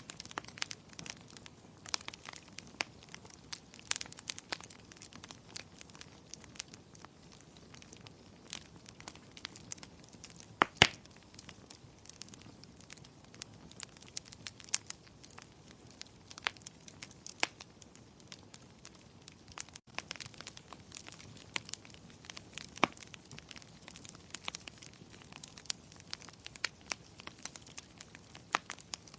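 Wood fire in a fireplace crackling and popping: irregular sharp snaps over a faint low rush of flame, with one loud pop about eleven seconds in.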